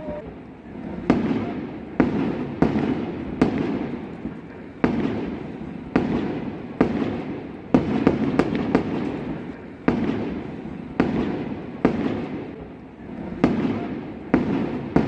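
Aerial fireworks going off in quick succession, a sharp shell burst roughly every half to one second, each followed by a rumbling echo that fills the gaps between bangs.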